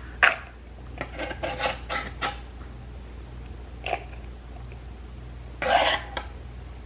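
Kitchen knife cutting onion on a cutting board: scattered sharp knocks and taps, a quick cluster of them about a second in, and a louder half-second burst of noise near the end.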